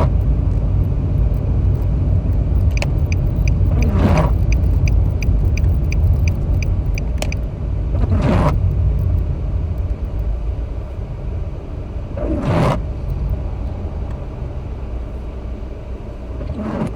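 Road rumble inside a moving car, with the windshield wipers sweeping about every four seconds, each pass a short squeak falling in pitch. A turn signal ticks about two to three times a second for a few seconds, starting about three seconds in.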